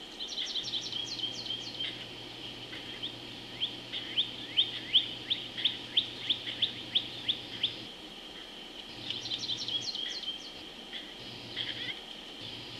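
Birds calling: a quick cluster of chirps at the start and again past the middle, with a steady run of short rising chirps, about four a second, in between, over a constant high hum.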